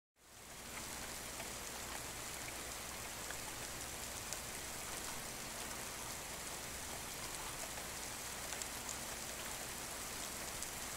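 Steady rain falling: an even hiss with scattered drop ticks, fading in over the first second.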